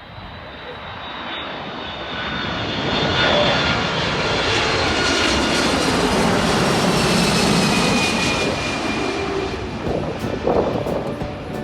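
Jet airliner passing close by: the engine roar swells to a peak and then eases off, with a high whine that slowly drops in pitch as it goes past.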